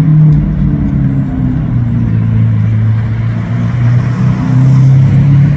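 Lamborghini Aventador's V12 engine running at low revs, its low drone shifting slightly up and down in pitch.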